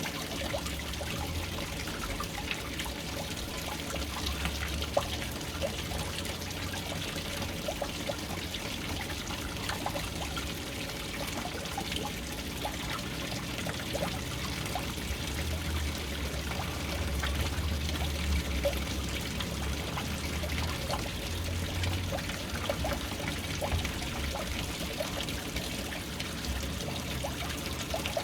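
Water pouring steadily into a household water tank from its float-valve inlet, a continuous splashing trickle dotted with many small drip-like plinks, over a low rumble that swells and fades.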